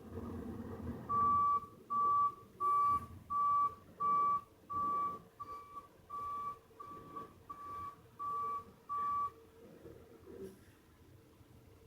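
Truck's reversing alarm beeping steadily at one pitch, twelve beeps about 0.7 s apart, then stopping; the truck is backing up. A low engine rumble runs underneath, loudest just before the beeps begin.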